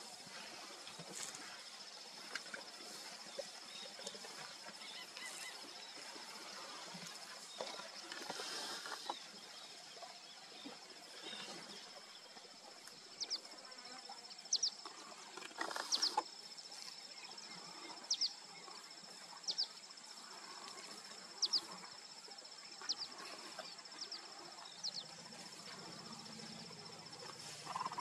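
Outdoor bush ambience with a steady high-pitched whine, like insects. Through the second half a bird gives short, sharp, falling calls about once a second.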